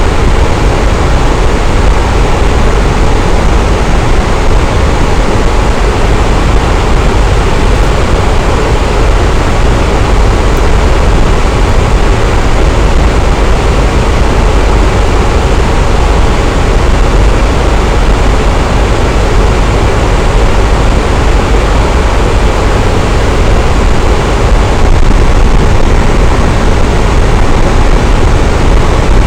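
Electric fan running steadily: a loud, constant whooshing rush of air with a deep low hum, unchanging throughout.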